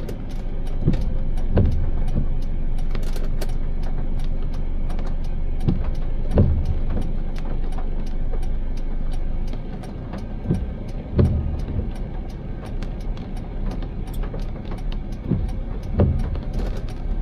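A car driving, with a steady low road rumble, faint regular ticks and a few short low thumps.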